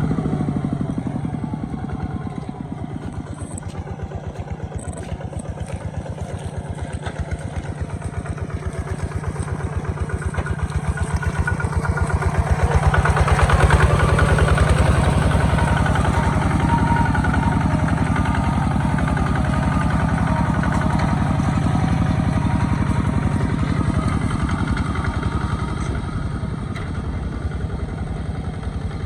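Small Kubota tractor's engine running steadily with a rapid, even chug. It grows louder to a peak about halfway through, then eases off a little.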